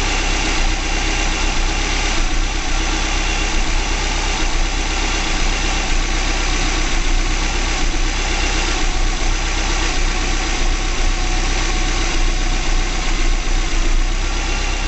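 Freshly rebuilt 2.5-litre turbocharged flat-four (EJ255) of a 2005 Subaru Legacy GT idling steadily.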